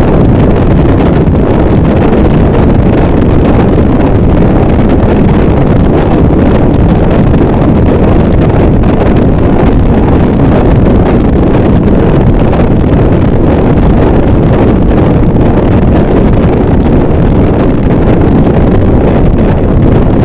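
Harsh noise wall: a loud, dense, unchanging wall of distorted static, heaviest in the low and middle range, with no beats or pauses.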